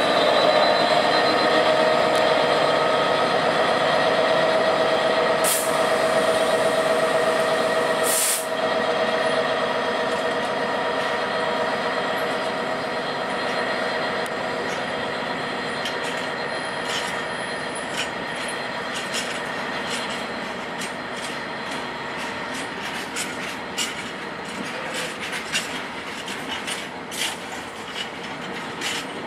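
Class 66 diesel locomotive's two-stroke V12 engine running as it hauls hopper wagons away, its steady tones strongest at first and fading as it recedes, with two brief hisses early on. Through the second half the wagons' wheels click over the rail joints more and more.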